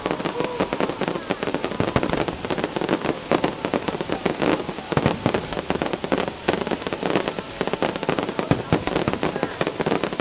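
Fireworks display: a dense, unbroken barrage of bangs, pops and crackles.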